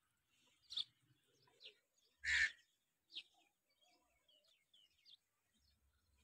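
Scattered short bird chirps and calls, with one louder short call about two seconds in.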